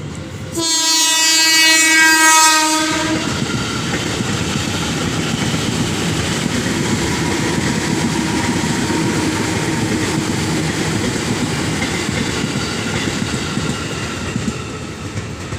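A train horn sounds one long blast of about two and a half seconds, then the train passes with a steady rumble and the clatter of its wheels on the rails.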